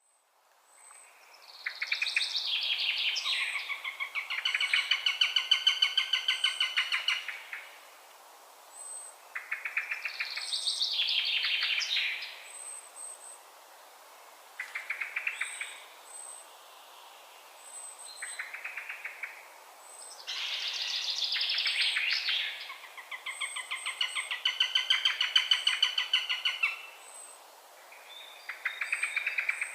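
Eurasian sparrowhawk calling: bouts of fast, chattering call notes, each bout lasting a few seconds and repeated again and again with short pauses between.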